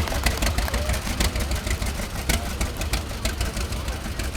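Antique tractor engine running steadily, with sharp ticks several times a second from a small exhaust leak.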